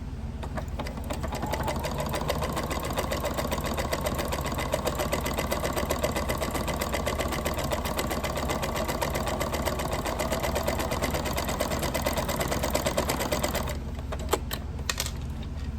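Janome Memory Craft 9000 sewing machine running steadily with fast, even needle strokes as it sews a multiple zigzag stitch over a slit in linen-blend fabric to darn it. It stops about two seconds before the end, and a couple of sharp clicks follow.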